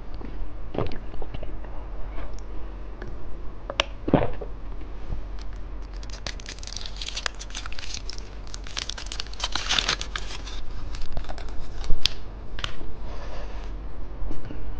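Plastic candy wrapper crinkling and being torn open, with scattered sharp clicks and taps; the crinkling is densest from about six to ten seconds in.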